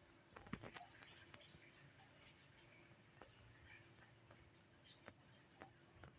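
Faint runs of very high-pitched squeaky bird chirps, in quick strings during the first second and a half and again around three to four seconds in, with a few light taps.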